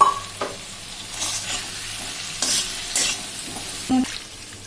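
Eggs and potatoes frying and sizzling in hot oil in a pan, stirred with several separate scraping strokes against the pan.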